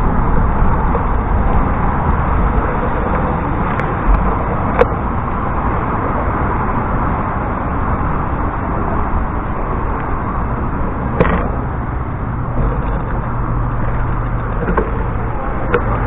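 Steady rushing wind and road noise on a bicycle-mounted microphone while riding, with a few sharp clicks or knocks from the bike.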